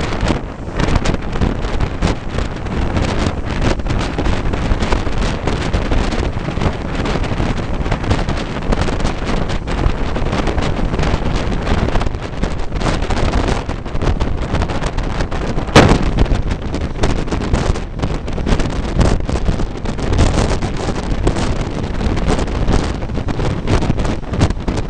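Moving passenger train heard from on board, with wind buffeting the microphone in a steady rush. One sharp crack stands out about two-thirds of the way through.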